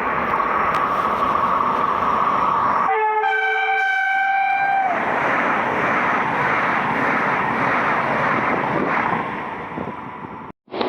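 Frecciarossa high-speed train passing through the station at speed, a loud steady rush of wheel and air noise. It sounds its two-tone horn for about two seconds, starting about three seconds in. The sound cuts off suddenly near the end.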